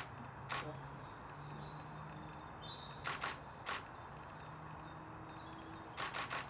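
SLR camera shutters firing in short bursts: a single click about half a second in, then groups of two or three clicks around three seconds in and again near the end. Faint bird chirps and a steady low hum sit underneath.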